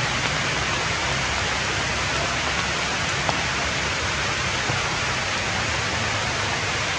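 Steady rain falling on forest leaves, an even hiss that does not let up.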